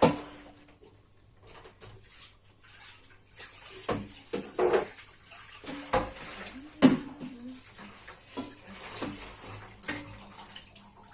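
Water splashing and sloshing in a basin or sink, with scattered knocks and clatter of household items.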